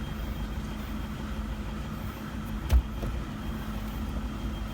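Toyota Innova engine idling steadily, with a single sharp click about two and a half seconds in. No squeak is heard from the front suspension, now fitted with new shock absorbers and ball joints.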